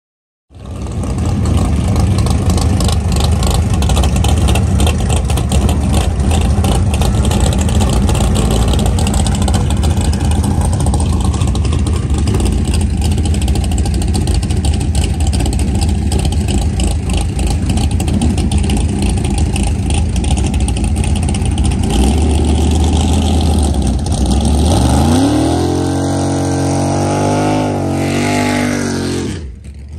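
Drag-race car engine running loud and rough at high revs. About 25 seconds in, a clear engine note climbs in pitch, wavers, then drops away. The sound cuts off abruptly just before the end.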